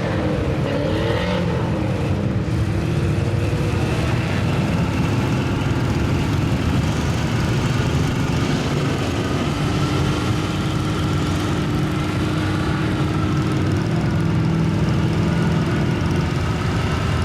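Mud truck engine running loud and steady, its pitch drifting slightly up and down without sharp revs.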